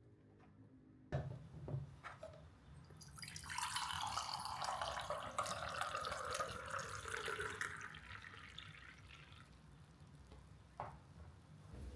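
Liquid running or pouring for about five seconds, with a band in the sound that slides down in pitch, preceded by a couple of sharp clicks. A single click comes near the end.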